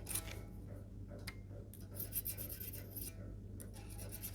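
Faint rubbing and scraping with scattered light ticks, from hands and a small tool working on an electric guitar, over a steady low hum.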